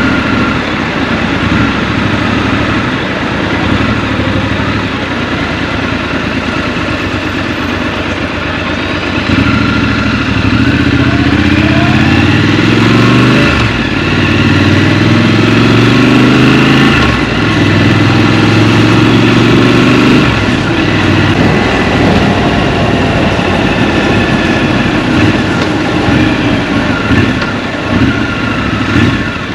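Scrambler motorcycle engine, heard from the rider's seat in traffic. It runs low at first, then accelerates about a third of the way in, its pitch climbing and stepping as it shifts gears. It eases off again about two-thirds of the way through.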